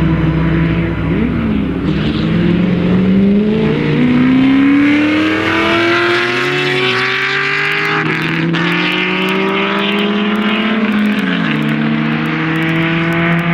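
Racing car engines run hard as several cars accelerate and brake through a slalom course. The engine pitch climbs repeatedly and drops, with more than one engine heard at once.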